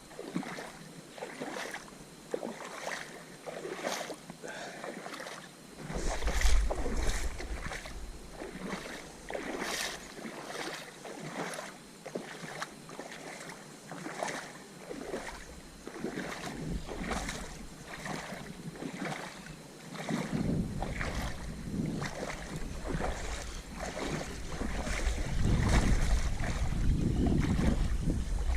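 Water splashing and sloshing in a run of short, irregular strokes, with wind gusting on the microphone at times.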